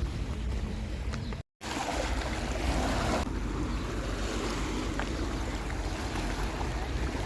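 Sea waves and surf washing with wind buffeting the microphone, a steady rushing noise with a heavy low rumble. The sound drops out briefly about one and a half seconds in, at an edit.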